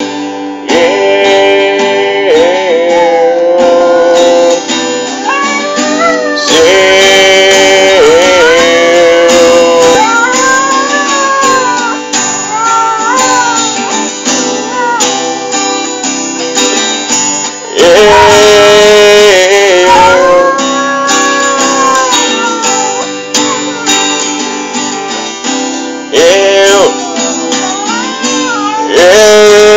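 A band playing a song led by guitar, with a voice singing a melody line over it.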